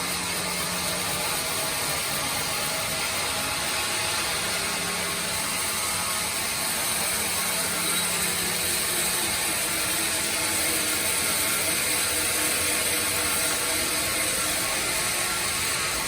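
Sawmill bandsaw running steadily, sawing through hard teak wood: an even, dense mechanical noise with no breaks.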